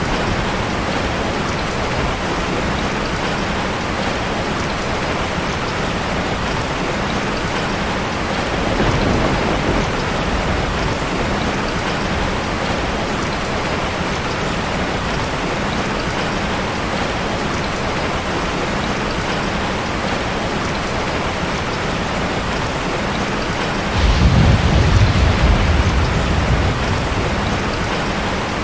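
Heavy rain falling steadily. A short low rumble comes about a third of the way in, and a louder one starts suddenly near the end and lasts about three seconds.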